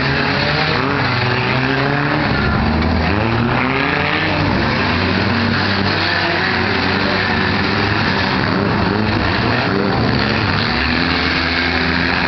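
Several four-cylinder demolition derby cars' engines running and revving at once, their pitches rising and falling over one another.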